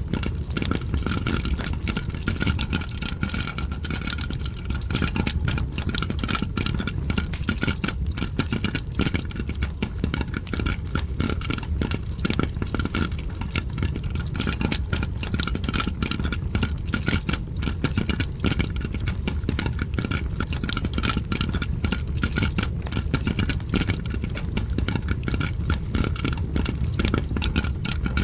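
Dense, continuous popping and crackling, many small clicks a second with no pause, over a steady low rumble: popcorn popping and a fire crackling.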